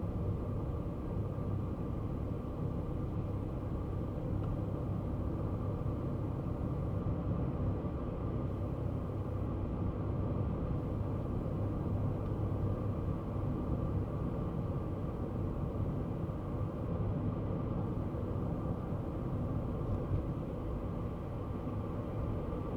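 Kei car driving at a steady pace: a continuous low engine and road rumble with no sudden changes.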